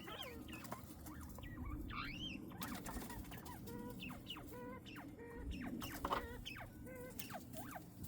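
Bobwhite quail in an aviary giving soft chirps and short calls: many brief notes, some gliding up or down and some repeated in short even runs, with a few faint clicks among them.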